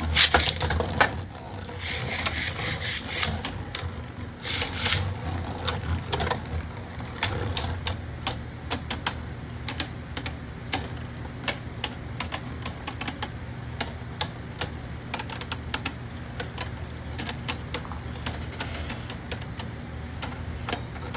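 Two Beyblade Burst tops battling in a plastic stadium: a loud burst in the first second, then many sharp, irregular clacks as the spinning tops strike each other and the stadium, over a steady low hum.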